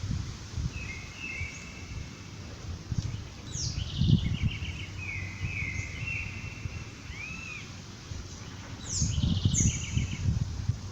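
Songbirds singing in short, repeated chirping phrases, several times with pauses between. Bursts of low rumble come and go underneath.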